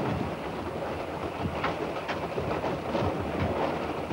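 The Prospector's diesel railcars running at speed: a steady rush of train noise with wheels clicking over rail joints at uneven intervals.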